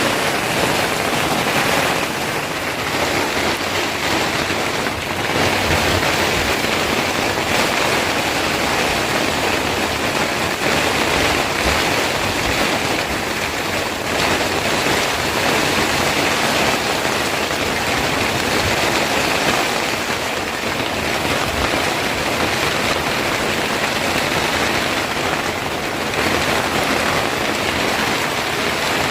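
Heavy rain falling steadily, a loud even hiss that swells and eases only slightly.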